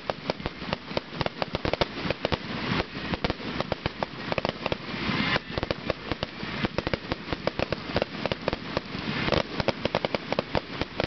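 Fireworks display bursting in a rapid, unbroken barrage of sharp bangs and crackles, many pops a second.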